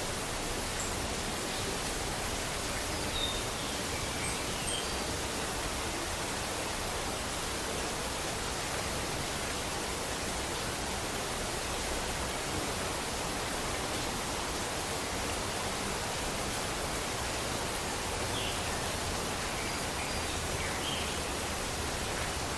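Steady rain falling, an even hiss with no change in level. A few faint short high chirps sound about four seconds in and again near the end.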